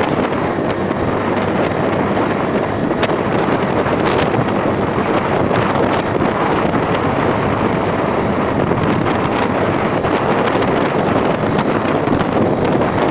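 Steady wind rush buffeting the microphone of a moving rider, loud and unbroken, with a few faint ticks.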